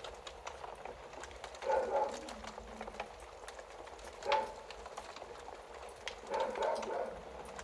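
Wood fire in a fireplace crackling, with many small sharp pops over a low hiss. There are a few louder flurries of crackling about two seconds in and again toward the end, and one loud single pop a little past the middle.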